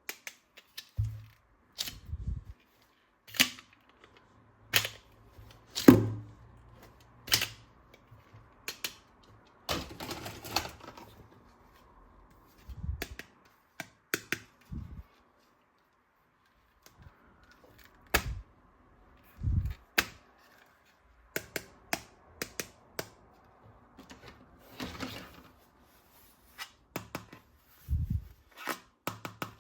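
Plastic toy guns and parts being handled: irregular sharp clicks and knocks every second or two, some with a dull thud as pieces are set down, and a brief rattling scrape in the middle.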